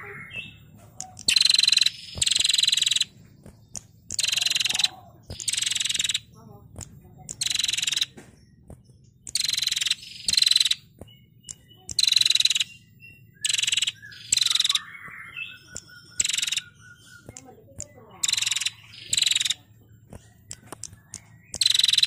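Female prenjak calling over and over in short, buzzy, rattling trills ('ngetir'), about one every second or two.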